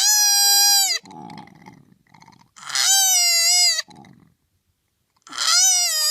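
An animal calling three times, each call a loud, drawn-out cry about a second long at one high, slightly wavering pitch. Quieter low, rough grunting sounds come between the calls.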